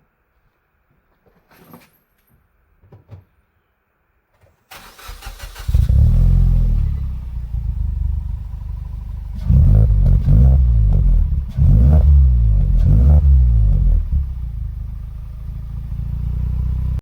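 Suzuki Swift Sport's 1.6-litre four-cylinder engine, with an aftermarket Fujitsubo exhaust, cranked and started about five seconds in, idling, then revved several times before settling back to idle.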